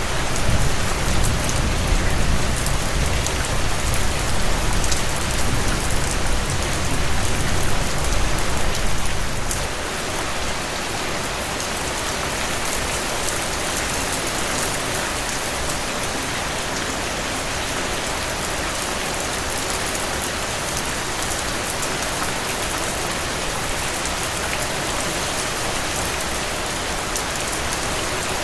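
Steady rain falling, an even hiss with fine drop clicks. A low rumble runs under it for the first nine or ten seconds, then dies away.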